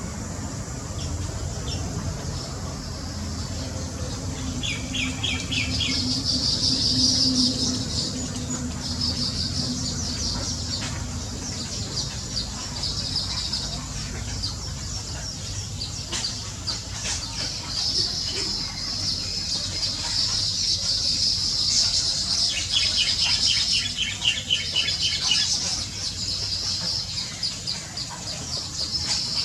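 Small birds chirping in a dense, high-pitched chatter, broken twice by short runs of fast trilled notes, over a steady low rumble.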